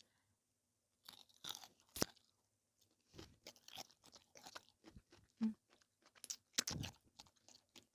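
A person chewing and crunching crisp food, with a sharp crunchy bite about two seconds in and irregular crunches and chewing through the rest.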